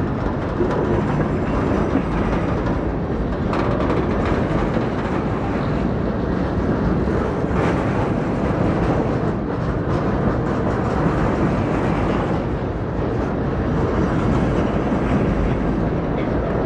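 Freight train rolling past, a steady rumble of wheels and cars on the rails.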